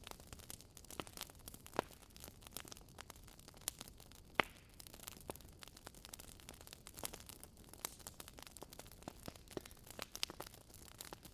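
Wood fire crackling in a fireplace: irregular sharp pops and snaps over a faint steady hiss of burning, with the loudest pops a little under two seconds in and about four and a half seconds in.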